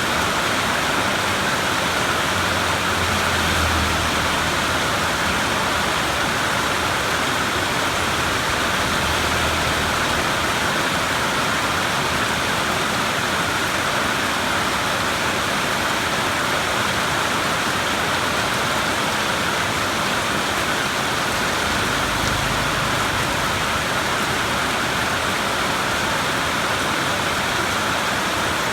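Steady heavy rainfall, an even hiss with no letup, with a few faint low rumbles underneath, the first about two seconds in and the last near 22 seconds.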